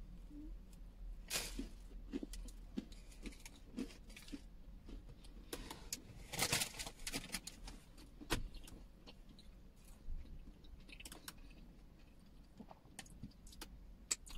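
A person chewing a mouthful of gingerbread close to the microphone, with small crunches and mouth clicks and a louder crunching moment about six and a half seconds in.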